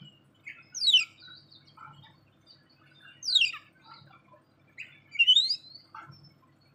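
A bird gives three loud, sharp calls about two seconds apart. The first two sweep quickly down in pitch and the third sweeps up. Softer short chirps come between them.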